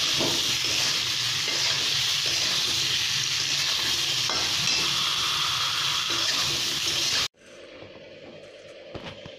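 Pointed gourd and potato pieces frying in hot oil in a wok, sizzling steadily while a spatula stirs them, with a few light knocks of the spatula against the pan. The sizzling cuts off abruptly about seven seconds in, leaving a faint hum and small clicks.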